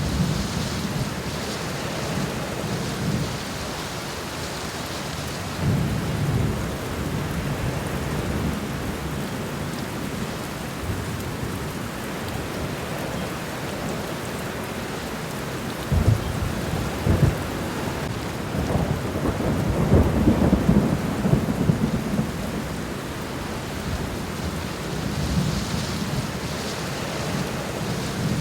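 Steady rain falling on the ground. Low rumbles swell about six seconds in and again over several seconds in the second half, loudest a little past the middle.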